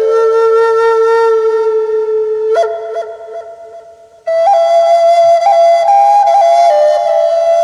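Wooden Native American flute, the Black Natura, playing a slow melody. It holds a long low note, flips up quickly to a note that fades away, then after a brief break starts a new phrase of higher notes with small ornaments.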